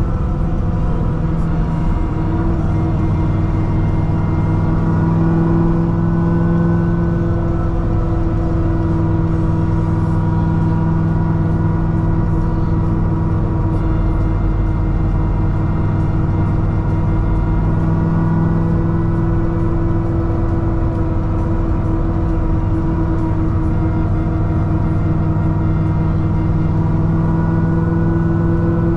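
Chevrolet Corvette C6 ZR1's supercharged 6.2-litre LS9 V8, fitted with a Kong 2650 supercharger, held at a steady cruise. It makes a constant drone whose pitch drifts only slightly up and down.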